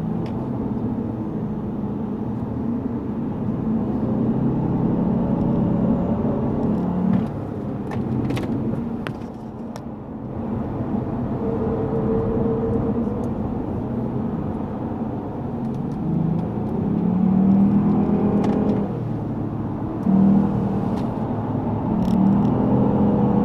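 Lexus GS450h's V6 hybrid powertrain running under load with tyre and road noise. The engine note dips about nine seconds in, then rises as the car accelerates, most clearly a few seconds before the end.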